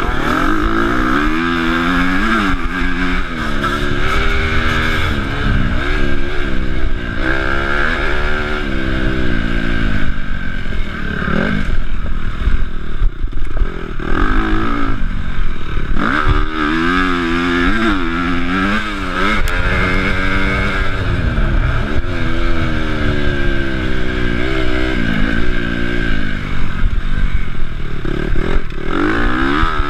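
Honda CRF250 four-stroke single-cylinder motocross engine being ridden hard, revving up and down again and again as the rider works the throttle and shifts, its pitch climbing and falling every second or two.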